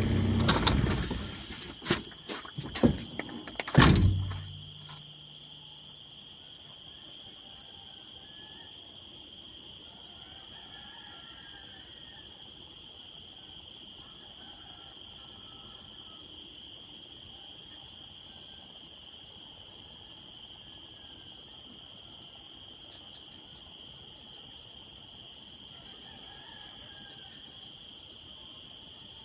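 A few loud knocks and clatters in the first four seconds. After them comes a steady, high-pitched chorus of insects, likely crickets, that runs on unbroken.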